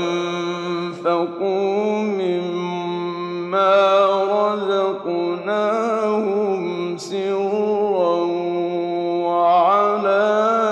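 A male reciter chanting the Quran in the melodic tajweed style, drawing each phrase out into long held notes with ornamented turns and brief breaks between them.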